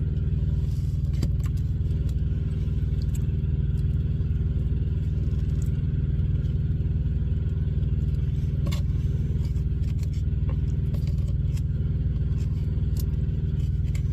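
Semi-truck cab noise: a steady low rumble of the truck's engine running, with a few light clicks and rattles.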